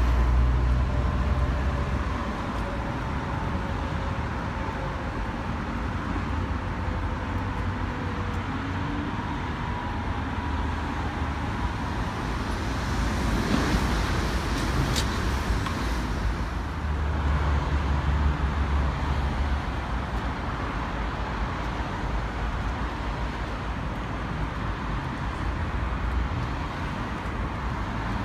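Red DB regional train passing beneath the bridge, the rush of its wheels on the track swelling to a peak about halfway through and then easing, over a steady rumble of rail yard and city traffic. In the first several seconds a faint whine slides slowly down in pitch.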